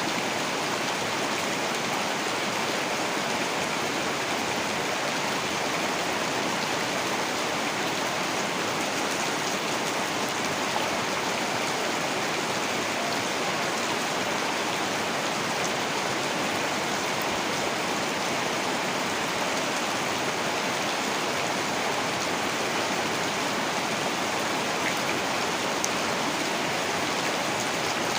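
Heavy rain falling steadily: a dense, even hiss that does not let up, with a few faint drop ticks here and there.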